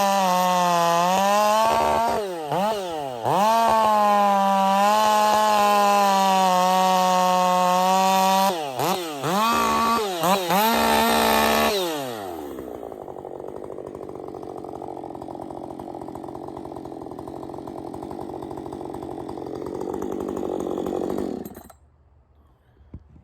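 Husqvarna 562 AutoTune two-stroke chainsaw running at full throttle, with the throttle let off and opened again several times so the pitch dips sharply and climbs back. About twelve seconds in it drops to a steady idle for several seconds, then the engine is shut off and cuts out near the end.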